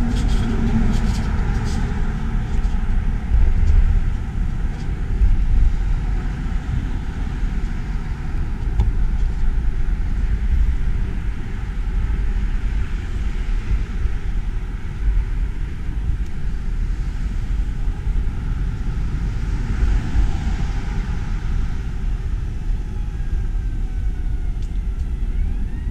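Steady low rumble of wind and road noise on an action camera's microphone during a bicycle ride, with a few clicks in the first couple of seconds and a passing swell about twenty seconds in.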